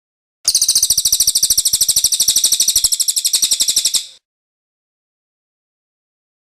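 Cililin bird singing its rolling trill: a fast, even run of high, rapidly repeated notes that starts about half a second in and breaks off abruptly after about three and a half seconds.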